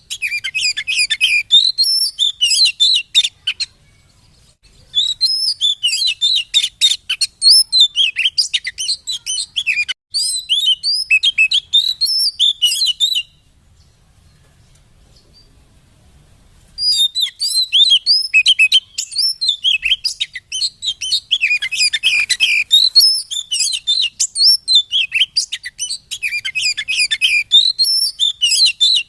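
Oriental magpie-robin (kacer) singing a fast, varied song of rapid chirps and whistles in long runs. It pauses briefly about four seconds in, and again for several seconds around the middle.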